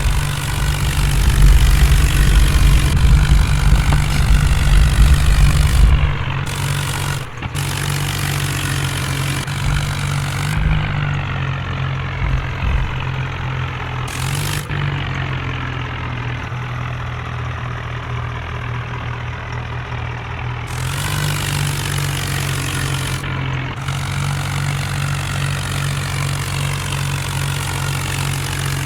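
Tractor engine running steadily, with a heavier low rumble for about the first six seconds.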